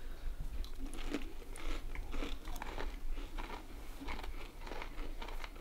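People chewing crispy breaded fried crappie, an irregular run of short crunches as the coating breaks.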